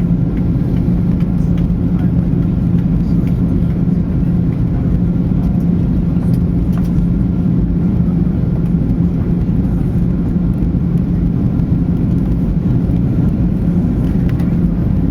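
A steady low mechanical drone with a constant hum.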